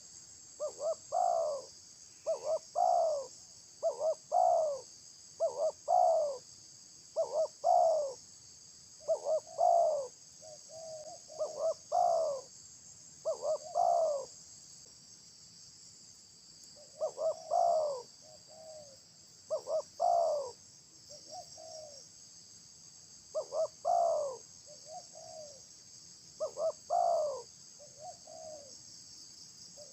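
A dove cooing over and over, each phrase a quick couple of notes followed by a longer coo, about one phrase every two seconds, with a short pause about halfway through. A steady high insect buzz runs beneath it.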